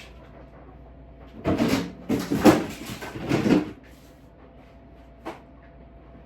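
Items being put back into a refrigerator: about two seconds of loud rustling and clattering as things are handled, then a single sharp knock near the end.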